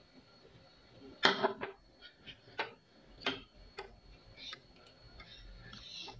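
Close-up mouth sounds of someone chewing soft boiled banana: a few sharp wet clicks and smacks, the loudest about a second in, with softer smacking near the end.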